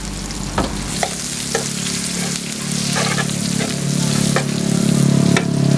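Ham and sliced onions sizzling in oil on a flat steel griddle, with sharp metal clicks and scrapes as tongs stir them. A low steady hum grows louder underneath.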